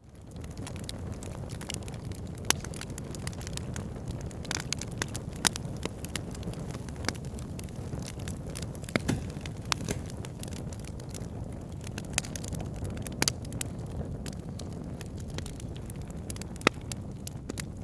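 Wood fire burning in a fireplace: a steady low rumble of flames with sharp crackles and pops every few seconds. It fades in from silence at the very start.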